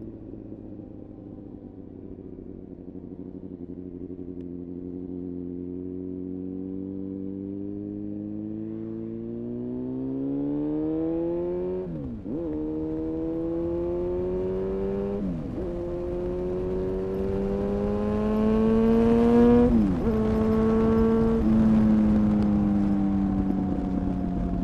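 2000 Honda CBR929RR Fireblade's inline-four engine breathing through an Erion full racing exhaust, accelerating while riding: the note climbs slowly, then three quick upshifts each drop the pitch before it climbs again, growing louder. Near the end it eases off to a steadier, slowly falling note.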